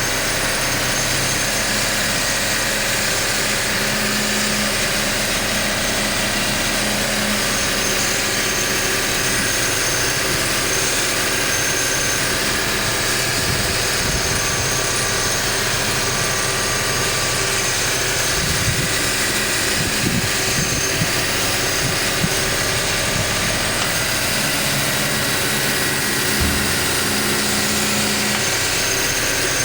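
BMW E46 316i's 1.9-litre M43 four-cylinder petrol engine idling steadily, sounding healthy, with a few brief low thumps in the middle.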